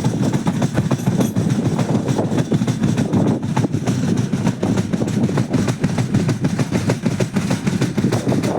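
Moving passenger train running steadily along the track: a constant rumble with the wheels clattering over the rails.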